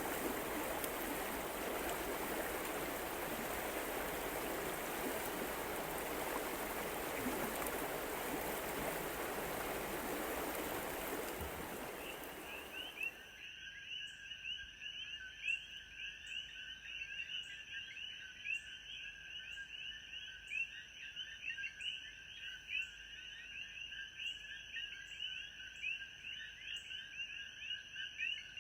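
A stream's flowing water rushes steadily, then fades out about twelve seconds in. A dense night chorus of calling frogs and insects takes over: many rapid chirps in two pitches, over a thin steady high trill with faint ticks repeating about every second.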